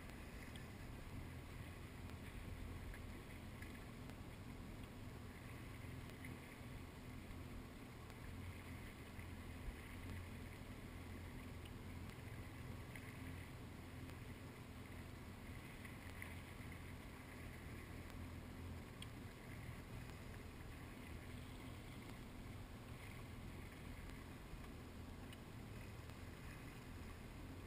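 Jet ski engine running steadily at a distance, a low, even rumble with water and wind noise over it.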